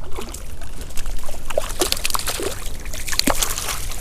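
Water splashing and dripping close by, with many irregular small plops and splats.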